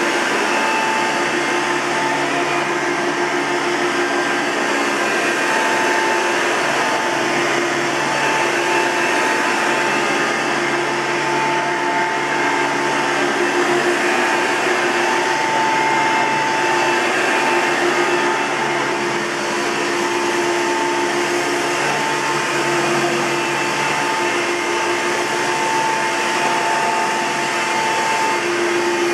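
1999 Hoover Soft & Light Elite upright vacuum cleaner running steadily, with a siren sort of sound: whining tones that fade in and out over the motor noise. A bearing is worn; even freshly greased, it needs replacing.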